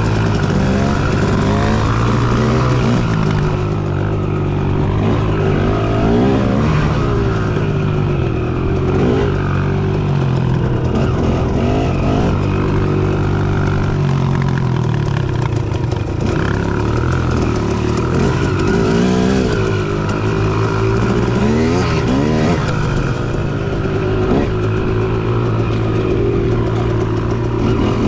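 Dirt bike engine running under riding, its revs rising and falling again and again as the throttle is worked.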